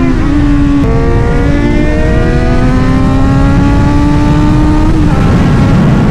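Sport motorcycle engine pulling hard under throttle: a gear change about a second in, then a steadily rising pitch for about four seconds before the throttle eases near the end.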